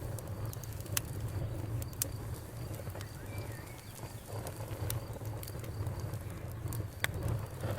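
Bonfire crackling, with irregular sharp pops over a low steady rumble, and a faint cricket trill underneath.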